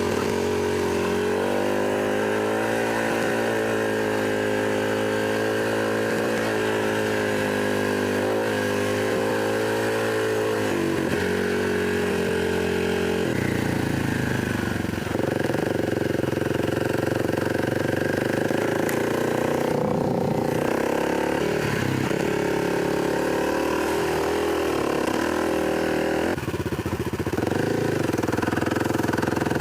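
Dirt bike engine running while riding a trail, its note rising and falling with the throttle. The pitch drops and shifts clearly about halfway through, and again near the end.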